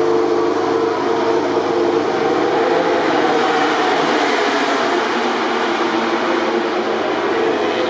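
MotoGP racing motorcycle engines running at high revs: a steady, high engine note, with a louder, noisier swell through the middle as a bike comes through.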